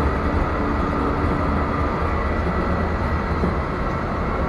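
Train running, heard from inside the passenger car: a steady low rumble with a faint whine for about a second near the start.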